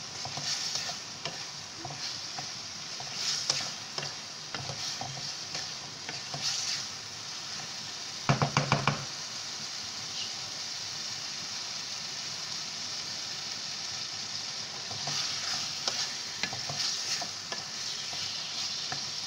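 Beef masala with tomatoes and onions sizzling in a metal pan, being fried down (bhuna) in oil, while a wooden spatula scrapes and stirs it. About eight seconds in comes a quick run of loud knocks. In the middle the sizzle goes on with no stirring.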